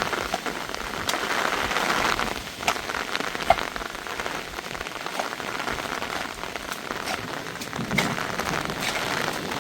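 Heavy rain falling steadily, with sharp drops striking a nearby surface now and then.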